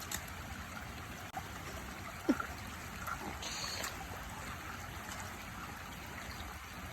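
Small stream running steadily over its bed, a continuous watery trickle. A brief short falling sound stands out about two seconds in, and a short hiss comes a second later.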